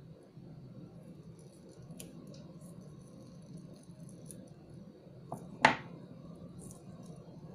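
Small, light clicks and taps of plastic beads and pliers being handled, with one sharper click about five and a half seconds in, over a faint steady hum.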